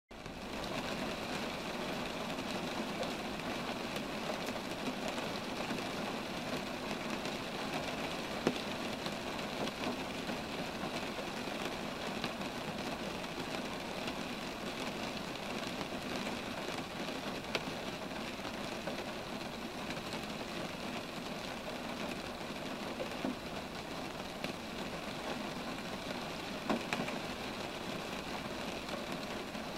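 Steady rain falling on roadside trees, with a few single louder drops now and then.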